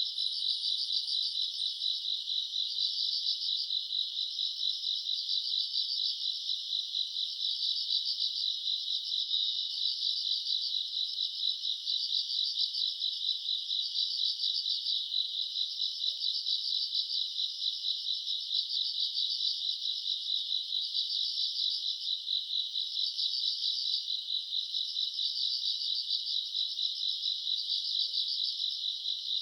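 A chorus of crickets and other grass insects chirping without pause: a dense, high, rapidly pulsing chirr, with louder phrases swelling about once a second.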